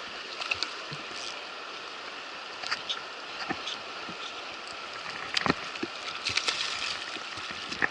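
Roaring Fork River water rushing steadily through pocket water, with scattered small splashes and knocks over it, several of them close together near the end.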